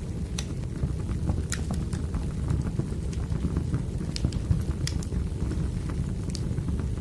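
Burning firewood crackling: a steady low rumble of the fire with irregular sharp pops and snaps.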